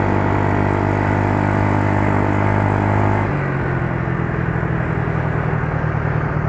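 Yamaha Mio Soul scooter's single-cylinder four-stroke engine running steadily on a freshly rejetted carburettor (120 main jet, 42 pilot jet). Its note changes abruptly about three seconds in and runs rougher after that.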